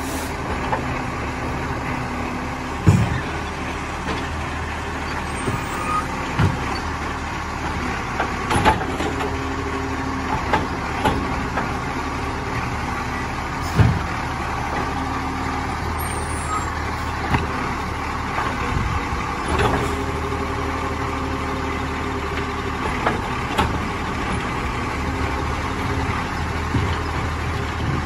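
Rubbish truck engine running steadily, with pitched whines that come and go and a dozen or so sharp knocks and clanks scattered through.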